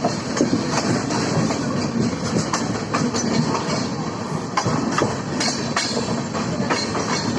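Indian Railways passenger train running, its wheels clacking irregularly over rail joints and points against a steady rumble.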